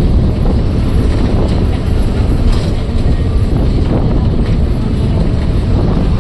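A moving bus: steady low engine and road rumble with light rattling.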